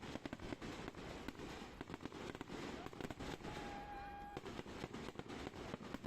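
A rapid, irregular crackle of sharp pops with a murmur of voices beneath, and a brief steady whistle-like tone a little past the middle.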